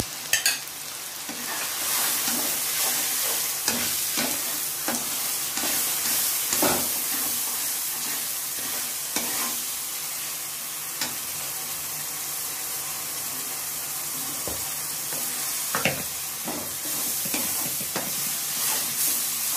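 Onion and spice masala sizzling in oil in a nonstick kadhai while a spatula stirs it, with irregular scrapes and knocks of the spatula against the pan. A little water has been added so the dry spices fry without burning.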